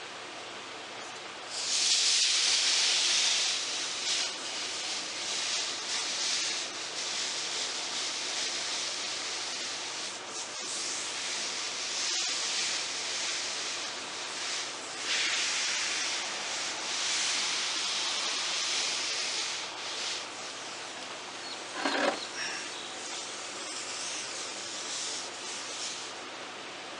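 Steam iron hissing through a damp rag pressed onto a dented wood veneer to swell the crushed fibres back up. The hiss surges loudly in waves as the iron is worked over the rag, with a short squeak late on.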